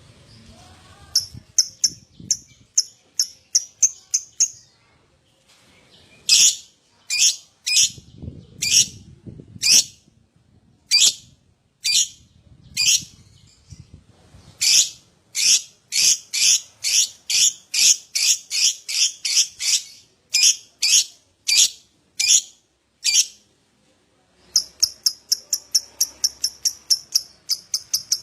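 Lovebird ngekek: sharp, high-pitched chirps repeated in long runs, some fast at about five a second and others about a second apart. The runs are broken by short pauses, and a dense, continuous run of chatter starts near the end.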